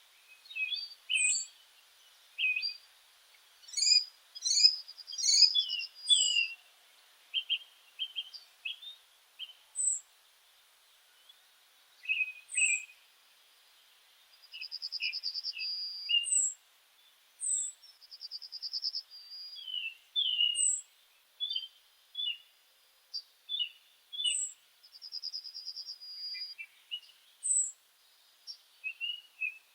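Birds calling: many short, high chirps and calls, with a buzzy trill lasting about a second every few seconds.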